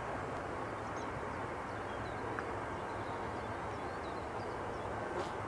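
Steady background hiss and low hum of an air traffic control radio recording between transmissions, with a few faint high chirps in the first couple of seconds.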